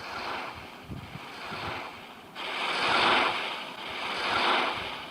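Sea surf washing in waves of noise with wind, swelling sharply about two seconds in and surging again near the end; no animal calls stand out.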